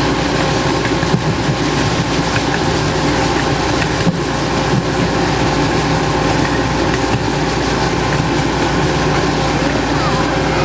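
Griffith Park ride train running along its track, heard from aboard: steady, unbroken running noise of the cars and wheels.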